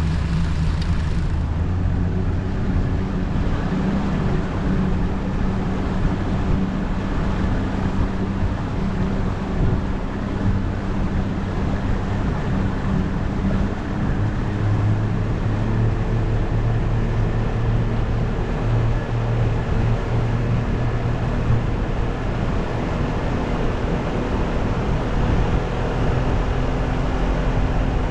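Fishing boat's motor running steadily under way, with a loud low drone over a constant rush of noise; the engine note shifts about halfway through.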